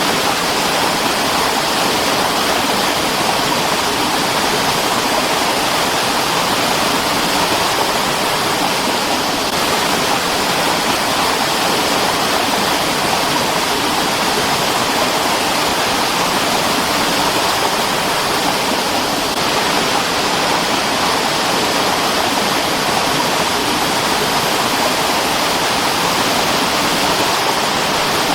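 Mountain stream rushing and splashing over rocks, a loud, steady wash of water noise.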